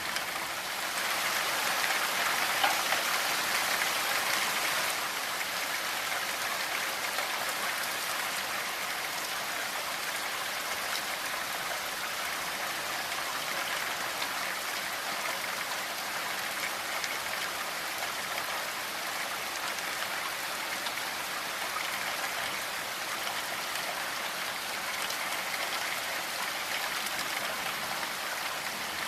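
Steady rainfall: an even hiss of rain with many fine drop patters, a little heavier for a few seconds near the start.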